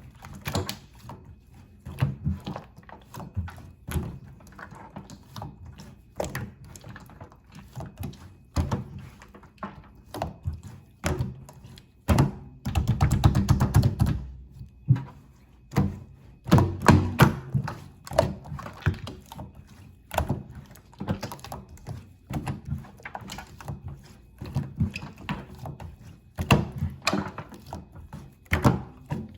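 Soft 'pongdang' slime being pressed and squished by hand, making an irregular run of small sticky clicks and pops with dull thuds.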